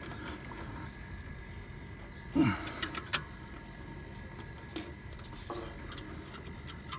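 A few sharp metal clicks from a wrench tightening a drive-belt adjuster bolt, with a short low sound falling in pitch about two and a half seconds in.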